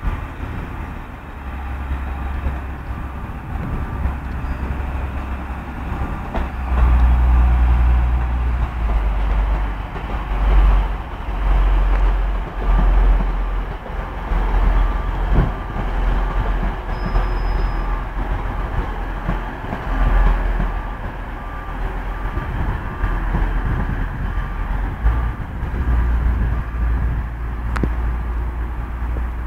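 A train moving at a station platform: a steady, deep rumble that grows louder about seven seconds in and stays strong.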